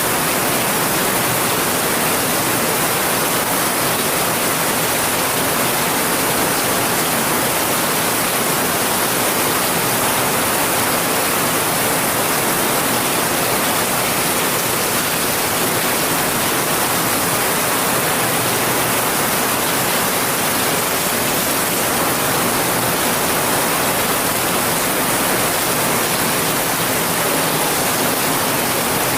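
Heavy rain falling in a steady, unbroken hiss, with no thunder or separate drops standing out.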